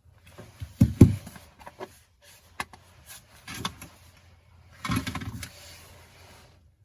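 Handling noise at a workbench: two loud knocks about a second in, a few sharp clicks, then a brief rustle near the end.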